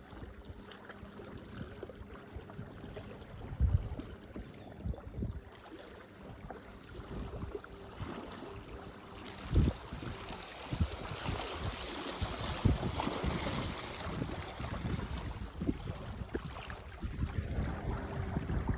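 Wind buffeting the microphone with low, irregular rumbles, over a steady rushing that swells and grows louder around the middle.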